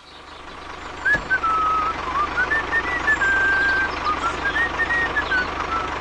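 Engine-like running with a fast, even low pulse, with a high wavering whistle-like tune gliding up and down over it.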